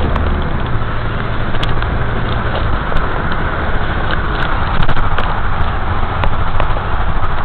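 A car running, with a low engine hum that fades about two and a half seconds in, under a loud steady rushing noise with scattered sharp ticks.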